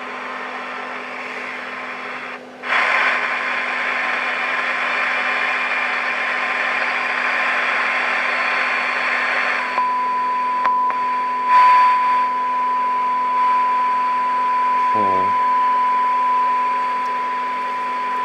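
Transistor radio's speaker giving static hiss over a low steady hum while it is tuned onto a signal generator's 600 kHz test signal. About ten seconds in the hiss drops and the generator's steady test tone comes through clearly, with a short wavering sound about five seconds later.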